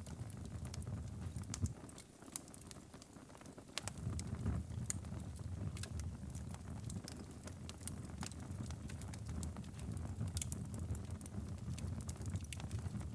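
Wood fire in a fireplace crackling, with irregular sharp pops, over a steady low rumble that dips for a moment about two seconds in.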